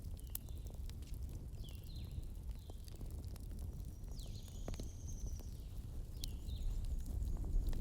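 Campfire burning: sharp crackles and pops over a steady low rumble, with short high falling chirps a few times.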